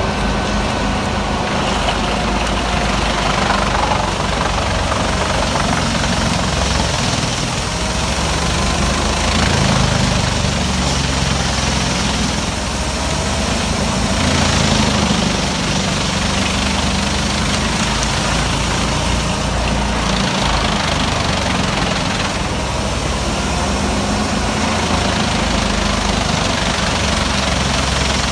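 Large wood chipper's engine running steadily, with several louder surges of a second or two each.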